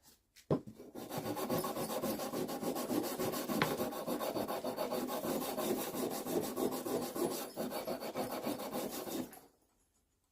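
Tack hammer's metal head being scrubbed by hand with an abrasive, quick back-and-forth rubbing strokes that start about a second in and stop near the end.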